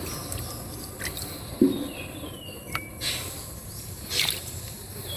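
Shallow drain water splashing and sloshing as hands grab at a stinging catfish, with a few short clicks.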